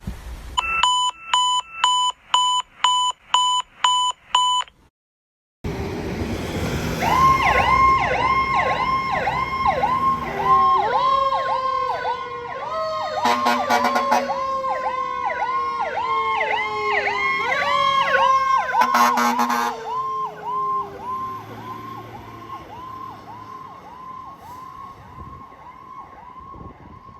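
A fire engine's siren on a fast yelp, with a second siren's slower falling wails and two loud horn blasts, fading toward the end. Before it, about eight evenly spaced electronic beeps stop abruptly.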